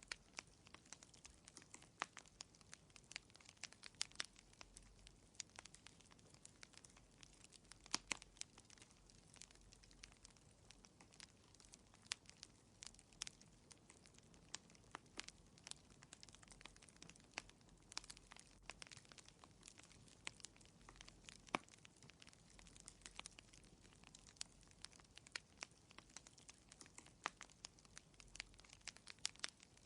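Fire in a fireplace crackling quietly: irregular sharp pops and snaps, several a second, over a faint hiss.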